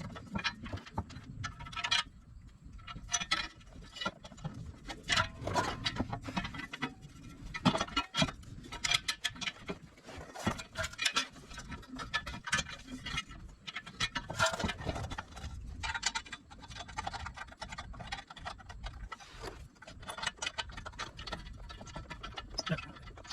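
Irregular metal clicks, clinks and short scrapes of exhaust pipe sections, clamps and bolts being handled and fitted together by hand.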